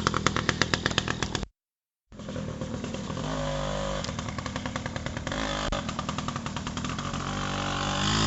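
Yamaha 80cc dirt bike engine running at low revs with a fast, even putter. It drops out into a half-second gap of silence about a second and a half in, then runs on more quietly and steadily, rising a little near the end.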